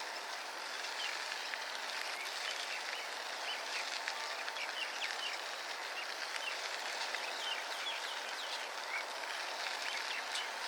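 Many short bird chirps scattered over a steady hiss of outdoor noise.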